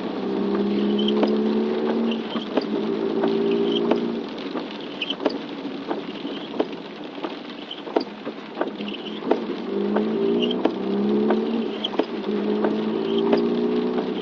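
Raindrops ticking irregularly, with a low hum that comes and goes in stretches of a second or two.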